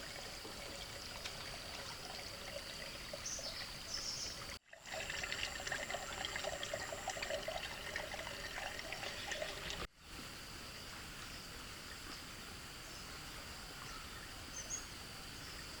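Trickling, splashing water over a steady high-pitched whine, in three short pieces that each cut off suddenly. The middle piece is busier, with dense crackling splashes.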